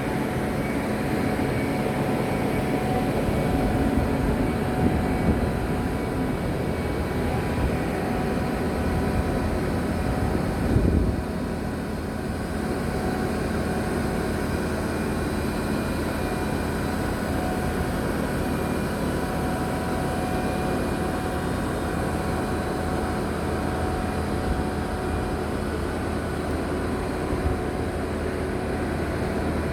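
Ford 6.4 L Power Stroke V8 diesel running steadily on a bucket truck while it drives the hydraulics that swing the aerial boom, with a steady whine over the engine. A single brief knock comes about eleven seconds in.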